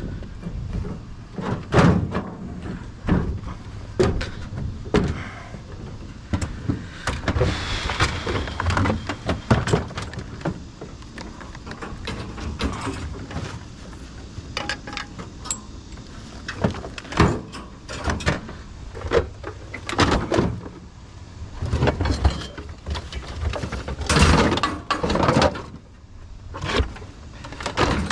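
Scrap being shifted, dragged and set down while a truck load is rearranged: irregular clanks and thuds with stretches of scraping.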